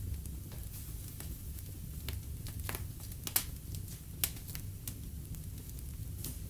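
Wood fire in a fireplace crackling, with irregular sharp pops over a steady low rumble of the flames. The loudest pop comes about three and a half seconds in, with another just after four seconds.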